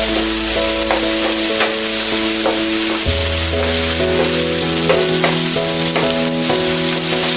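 Boiled chicken pieces, onion and garlic sizzling in oil in a nonstick frying pan, stirred and scraped with a wooden spatula, with scattered light scrapes and taps. Soft background music of held notes plays underneath.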